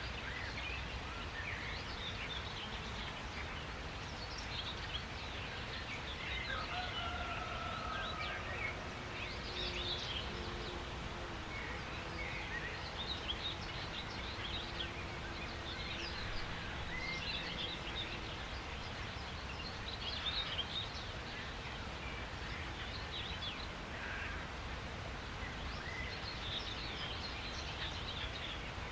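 Several birds chirping and trilling over a steady outdoor background hiss, with a few longer whistled notes scattered among the calls.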